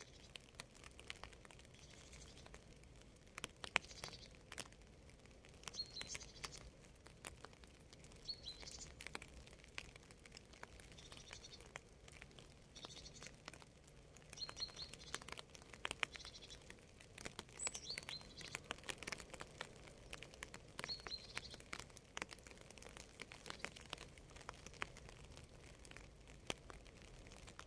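Faint rain falling as irregular drips and sharp ticks, with a small bird giving short high chirps every second or two; the chirps stop near the end.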